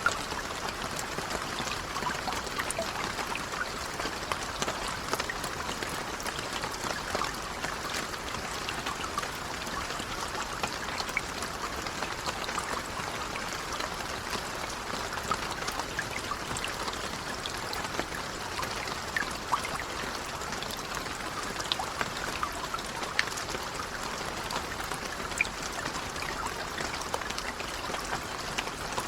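Steady gentle rain, an even hiss of falling water with many small drop ticks scattered through it.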